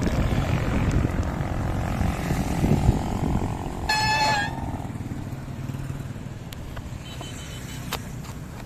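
Motor vehicle traffic passing on the road, with one short horn beep about four seconds in; the engine noise fades away in the second half.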